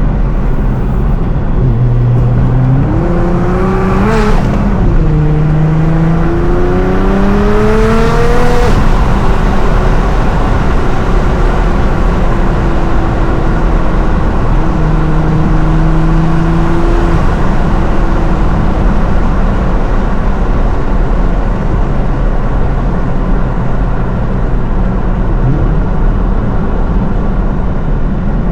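750 hp Nissan R35 GT-R's twin-turbo V6 pulling hard: the revs climb and drop sharply about four seconds in, climb again and drop near eight seconds, then settle into a steady cruise with the pitch slowly falling, over a constant road rumble.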